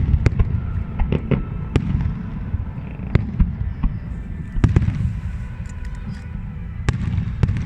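Fireworks display: a continuous low rumble of shell bursts, with many sharp cracks and bangs coming in clusters.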